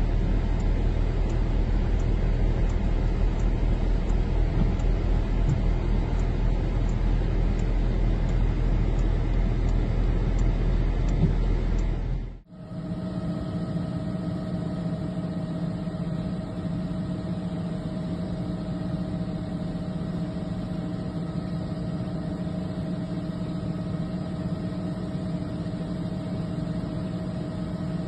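A vehicle's engine and road rumble, a deep steady drone. About twelve seconds in it cuts off abruptly, and a different steady engine hum with a clear pitched drone takes over.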